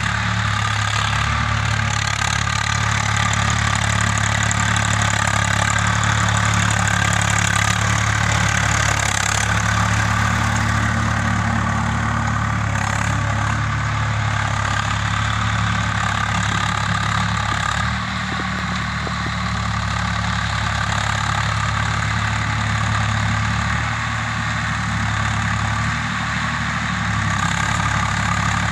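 Swaraj 855 tractor's three-cylinder diesel engine running steadily under load while tilling a field, with small dips in engine note about two-thirds of the way through.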